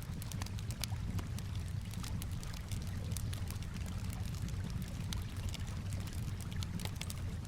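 Campfire crackling with frequent sharp pops and snaps over a steady low wash of calm water.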